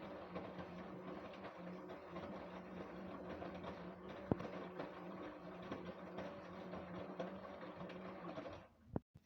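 LG WD-1054FB front-loading washing machine running in its second rinse, a steady hum with a sharp click about four seconds in. Near the end the running stops abruptly, followed by a single click.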